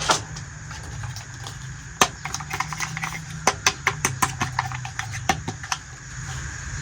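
A quick run of light, sharp clicks and taps, like small hard plastic toy kitchen pieces being handled and set down. They start about two seconds in and stop shortly before the end, after one click at the very start, over a steady low hum.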